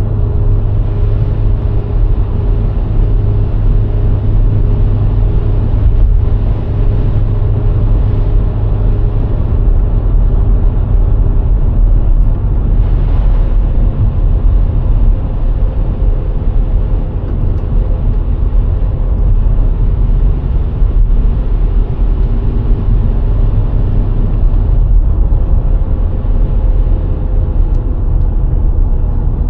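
VW Golf IV's 1.6 four-cylinder petrol engine running with steady tyre and road rumble as the car drives at a constant speed. The engine note changes pitch slightly partway through.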